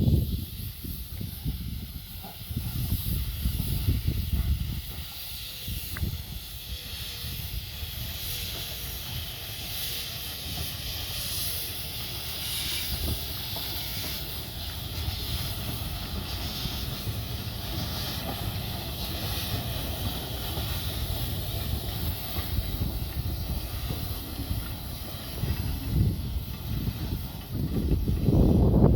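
Steam hissing steadily from a Buffaud-Robatel 031T steam tank locomotive standing by, over a low rumble that swells near the start and again near the end.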